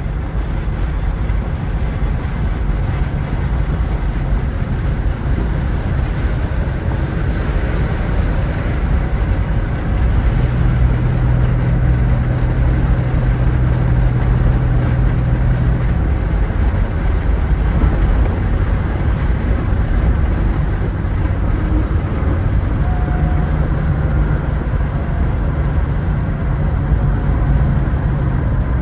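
1975 Porsche 911S's air-cooled flat-six engine running under way, with road and wind noise. The engine note shifts in pitch a few times.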